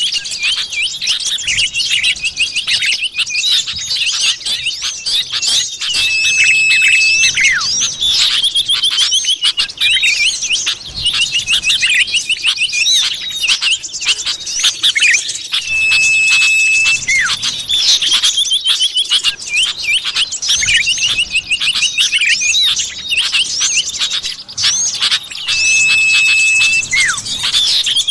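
Common iora (cipoh) lure calls: busy, rapid chirping and trilling with a level whistle about a second long. The whole pattern repeats about every ten seconds, as a looped lure recording does.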